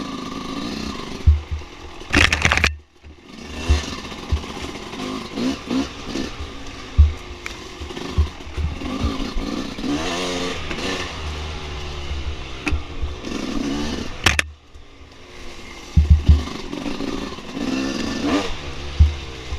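Dirt bike engine revving up and down while riding a trail, with frequent short knocks and clatter from the rough ground. The engine sound drops away sharply twice, about 3 seconds in and again about 14 seconds in.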